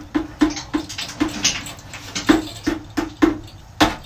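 Quick repeated scraping or scrubbing strokes, about three a second, with a harder stroke near the end, as droppings and mess are cleaned out of a chicken coop.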